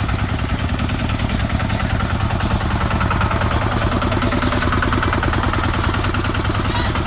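A vehicle engine running steadily close by, with a rapid, even pulse.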